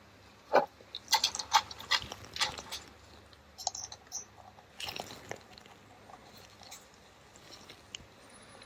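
Small metal carburettor parts being handled and fitted by hand: a scatter of light clicks and taps, busiest in the first few seconds and again around five seconds in.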